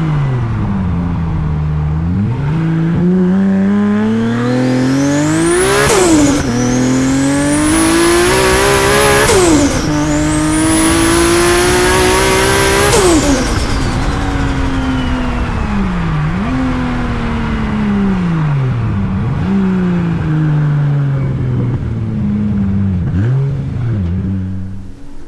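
Big-turbo Toyota Supra 2JZ straight-six accelerating hard through several gears, its pitch climbing and dropping suddenly at each of two upshifts, with a high turbo whistle rising with boost. From about halfway it lifts off and slows, the pitch falling, with a few quick throttle blips on the downshifts.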